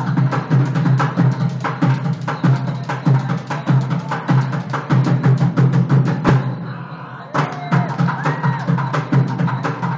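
Drummers playing a fast, dense percussion rhythm. The strokes break off for about a second some six seconds in, then start again.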